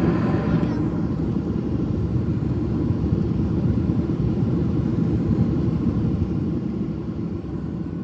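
Boeing 737-800 rolling out on the runway after landing, heard from inside the cabin: a heavy low rumble of engines and wheels. A higher rush drops away about a second in, and the rumble fades gradually as the jet slows.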